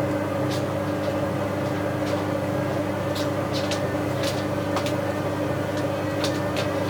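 Bauknecht WA 7778 W front-loading washing machine running through a hot/coloured wash with towels: a steady motor and drum hum with two clear steady tones, and scattered light clicks and splashes from inside the drum. The machine has an early drum-bearing fault, not yet severe.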